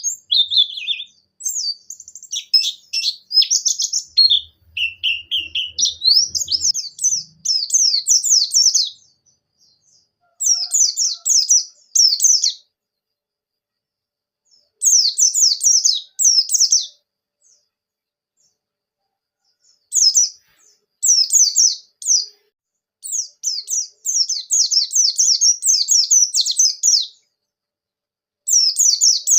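White-eye (pleci) singing in fast, high-pitched chattering phrases of rapid chirps, each lasting one to three seconds, broken by short pauses and two longer silences of a few seconds near the middle.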